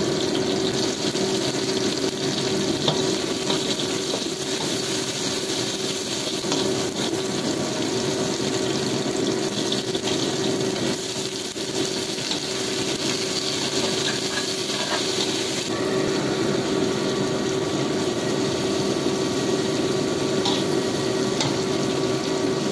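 Steady sizzling of prawns and chopped shallots, garlic, chilli and ginger stir-frying in oil in a wok, with a constant hum underneath.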